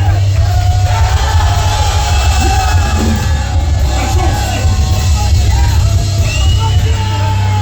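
Heavy metal band playing live and loud, with a heavy bass rumble and sustained pitched notes above it.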